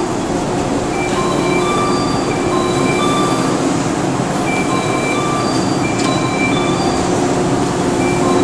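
Green electric commuter train standing at the platform with its doors open; its onboard equipment gives a loud, steady hum and hiss. Short high tones come and go over it.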